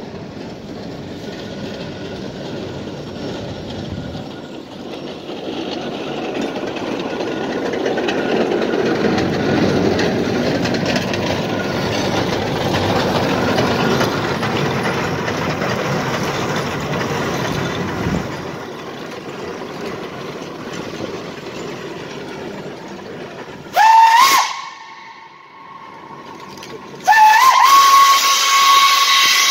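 Steam locomotive whistle: one short blast, then a long held blast near the end, each sliding up in pitch as it opens. Before it, a long rushing, hissing noise that swells and then eases off.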